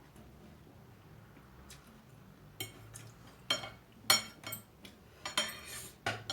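Eating utensils clinking and scraping against a bowl of noodles, a string of sharp clicks beginning about two and a half seconds in.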